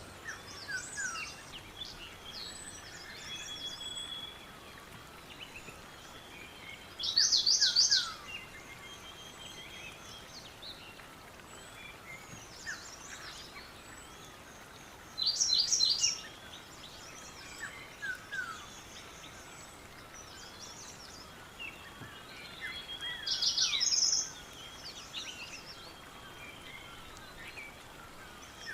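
Several birds singing. One bird repeats a loud, quick song phrase about a second long three times, roughly every eight seconds, while fainter chirps and whistles from other birds fill the gaps.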